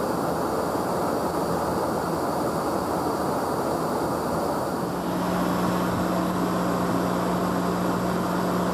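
Steady jet aircraft noise: a constant rush of engines and airflow. About halfway through, a steady low hum joins it.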